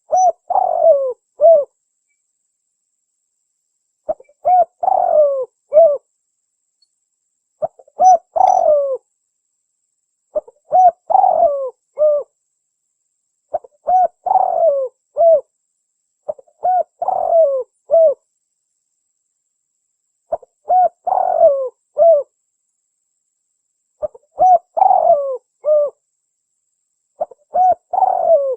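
Spotted dove (tekukur) cooing: a phrase of several clear coos repeated nine times, every three to four seconds, with dead silence between phrases. It is a looped recording of the call, played as a lure to attract wild doves.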